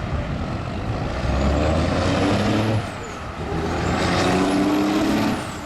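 Diesel semi-truck engines running hard, with a high turbo whistle rising in pitch twice: the sound drops off briefly about three seconds in, then climbs again and falls away near the end.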